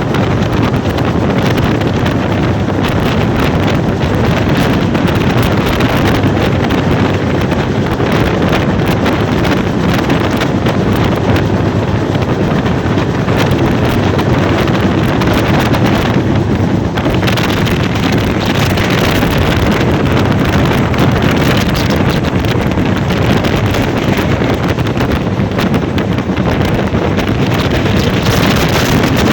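Loud, steady wind rush buffeting the microphone over the low rumble of a fast-moving train.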